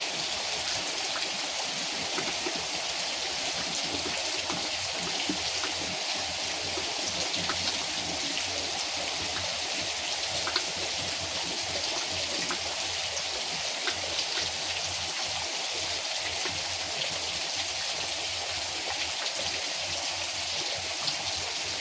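Steady rain falling: a dense, even hiss with many single drops ticking through it.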